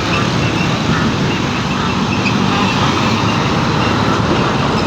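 Steady road noise from a passing heavy truck: a deep engine rumble under a dense roar of tyres and wind.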